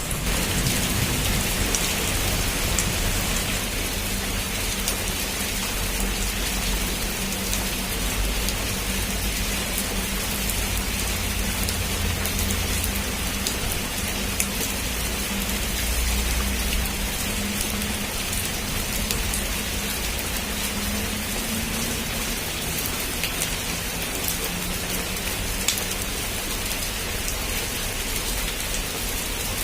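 Heavy rain falling steadily on a rooftop, with a low rumble underneath and scattered sharp drop ticks.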